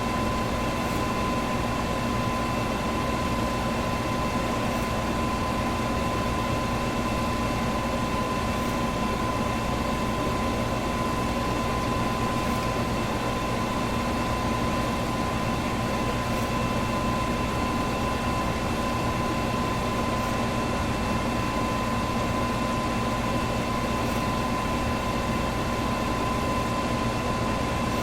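Electric fan running steadily: an even whooshing rush of air with a steady motor hum, and a faint tick about every four seconds.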